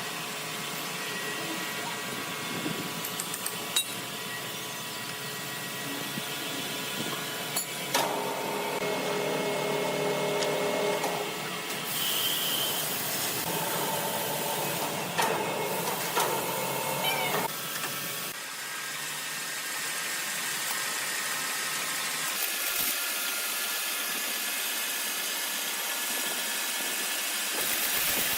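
Wood-processing machinery running, with a steady whine in two spells a few seconds long, and the noise changing abruptly several times.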